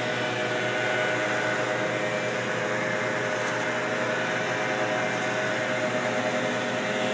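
Steady mechanical drone: an even hiss with a few constant tones through it, unchanging throughout.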